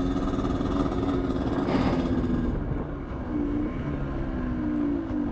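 Two-stroke 50 cc Minarelli AM6 engine of a 2003 Aprilia RX 50 running at a steady pitch, then easing off about two and a half seconds in and running lower and unevenly as the bike slows.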